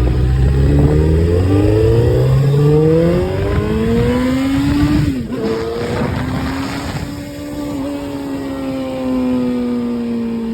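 Kawasaki Ninja sport bike engine accelerating hard, its pitch rising over the first few seconds with a break around the middle, then holding a steadier, slowly falling note as it runs on.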